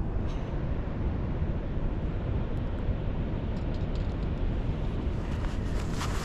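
Steady low rushing noise of open water below a dam, with a few faint clicks near the end.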